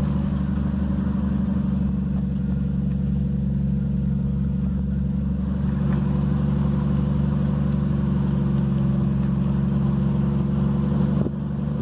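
A car or truck's engine humming steadily at low speed with tyre noise, heard from inside the cab while driving, with a brief dip and change in the engine note near the end.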